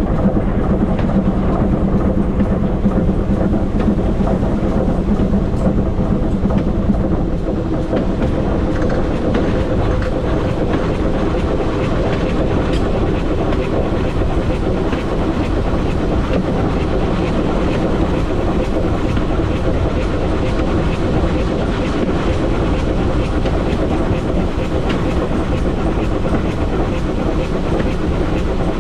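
Steam train hauled by GWR small Prairie tank No. 5542 running along the line: a continuous rumble and clatter of wheels on rail. A low steady hum in the mix drops away about seven seconds in.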